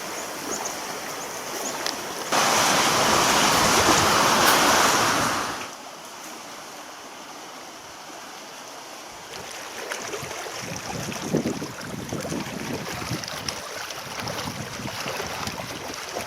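Wind rushing across the microphone and waves washing on a lake, cut together in short stretches; the rush is loudest for a few seconds early on, then drops to a softer lapping of water.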